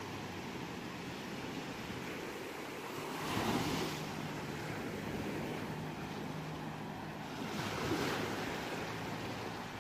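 Ocean surf washing steadily on a shore, with two waves breaking and swelling louder, about three and a half seconds in and again about eight seconds in.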